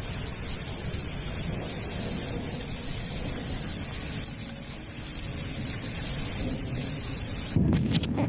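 Heavy rain pouring down steadily, with a low rumble underneath. About seven and a half seconds in, it cuts abruptly to a louder, duller low rumble.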